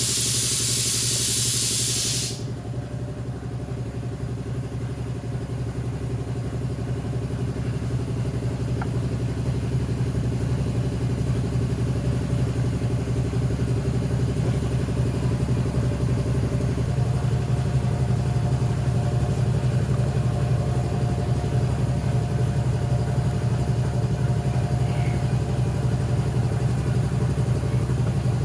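A loud hiss that cuts off suddenly about two seconds in, over a motor running steadily with a low hum. The hum grows louder over the first several seconds and changes tone about two-thirds of the way through.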